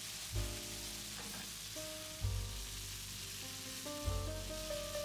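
Pork, zucchini and onion sizzling in a frying pan as they are stir-fried, a steady hiss. Soft background music with held notes and a low beat about every two seconds plays underneath.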